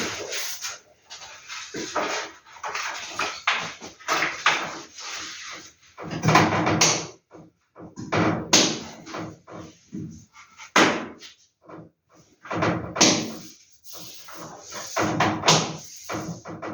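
Paper posters and their packaging being handled and rustled: an irregular run of crackles and rustles with occasional soft knocks.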